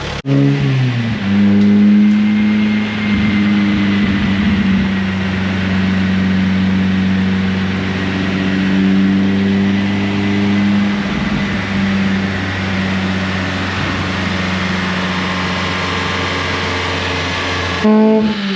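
Mazda Miata NB2's 1.8 L VVT four-cylinder with a full Racing Beat exhaust running on a chassis dyno. The revs climb over about a second and are then held at one steady engine speed, as in dyno tuning. Near the end the revs drop.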